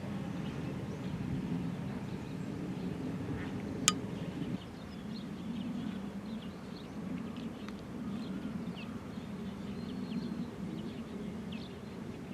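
Outdoor ambience of many faint, short, high bird chirps and whistles scattered through a steady low rumble, with one sharp click about four seconds in.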